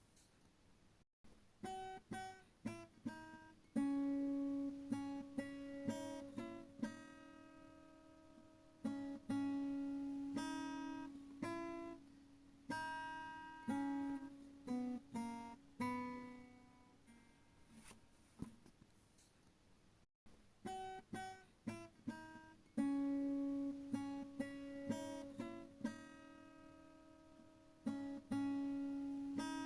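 Background music: acoustic guitar picking a gentle melody of ringing, decaying notes. The same passage loops, with a short break where it starts over.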